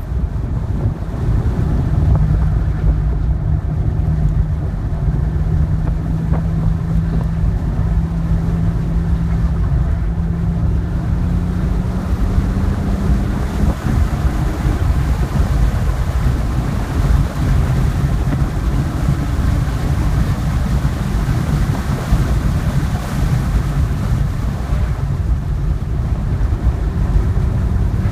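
2010 BMW 3 Series heard from inside the cabin at speed: engine running under a heavy rumble of wind and road noise. The engine note rises slowly through the first half, sinks back into the rumble, and comes through again near the end.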